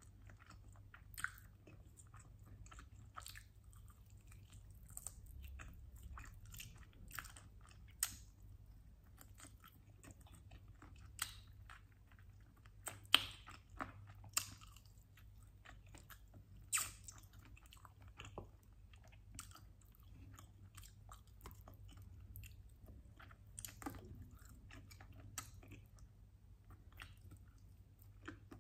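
Close-miked chewing and biting of sauced chicken wings: soft mouth sounds broken by irregular sharp, short clicks, the loudest about thirteen seconds in.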